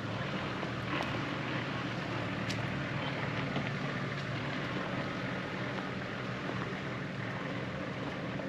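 A 4WD's engine running steadily under load as it climbs a steep dirt track, with a few faint knocks and rattles.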